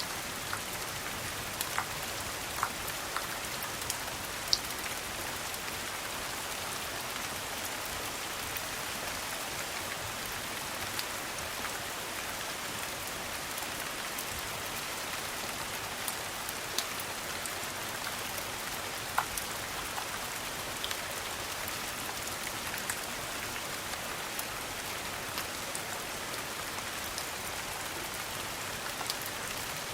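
Steady rain, an even hiss, with scattered sharp clicks and pops every second or two.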